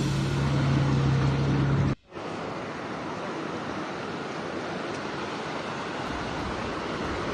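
A steady low hum cuts off abruptly about two seconds in. It is followed by the even, steady rushing of fast floodwater.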